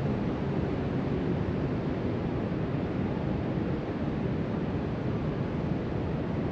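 Distant ocean surf breaking along the shore, heard as a steady wash, with wind blowing across the microphone.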